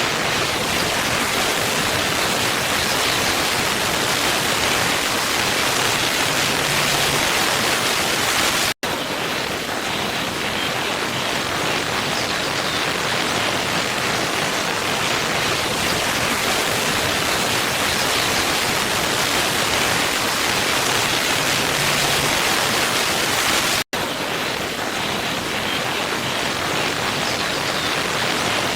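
Waterfall rushing in a steady, even hiss of falling water. The sound cuts out for an instant twice, about fifteen seconds apart, where the looped recording joins.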